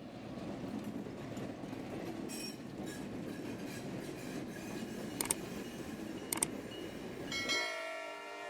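Freight train rolling past with a steady rumble, brief faint wheel squeal and two sharp clicks. Near the end the rumble cuts out and a held chord-like tone takes over.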